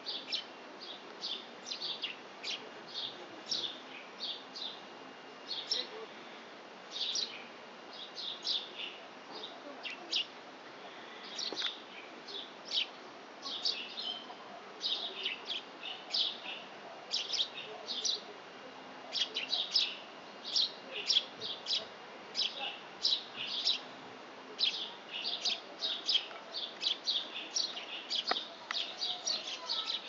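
Small songbirds twittering in the trees, many short high chirps following one another quickly and without pause.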